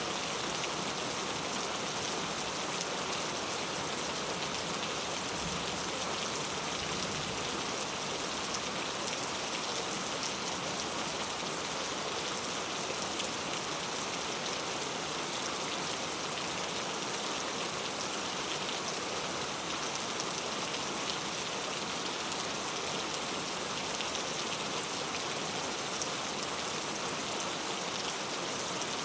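Steady rain ambience: an even hiss of falling rain with scattered faint ticks of single drops.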